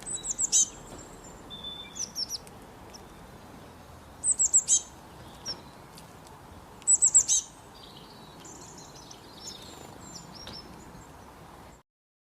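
A bird chirping in short bursts of four to six quick, high, falling notes, repeated every two to three seconds over a faint steady hiss.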